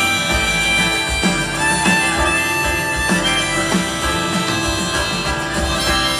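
A live band playing an instrumental passage of a song, with a steady beat and a held high lead melody over it.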